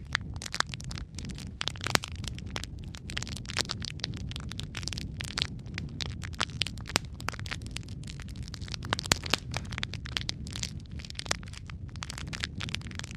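Wood logs burning in a fireplace: a steady low rumble of flame with frequent irregular crackles and sharp pops.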